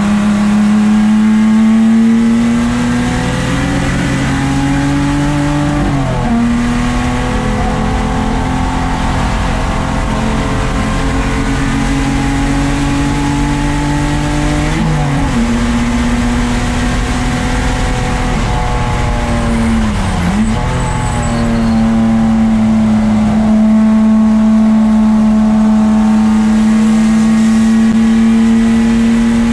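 Toyota 2JZ straight-six of a 1994 Lexus SC300 race car running hard. Its pitch climbs slowly, then drops sharply at two upshifts, about 6 and 15 seconds in. Around 20 seconds in it dips briefly and comes straight back, then holds steady.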